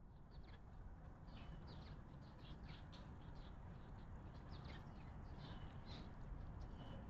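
Small wild birds chirping faintly, many short high calls scattered irregularly, over a steady low rumble.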